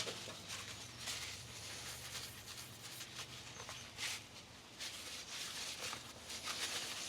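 Faint rustling and a few light knocks as parts are handled in the workshop, with a slightly louder knock about four seconds in.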